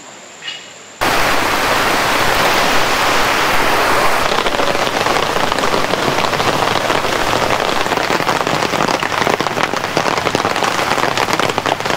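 Heavy rain pouring down with a dense patter of drops, starting abruptly about a second in and running steadily.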